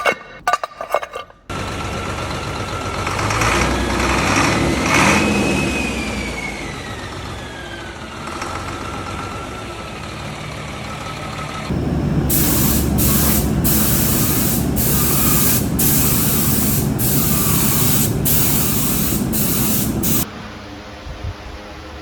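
Engine-assembly factory machinery running, with a whine that falls in pitch, then about eight seconds of loud hissing air broken by short gaps, cutting off suddenly.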